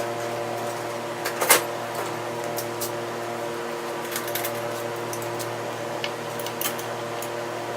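Light metallic clicks and knocks of engine parts and hardware being handled during VW engine case assembly, the loudest knock about one and a half seconds in, over a steady machine hum.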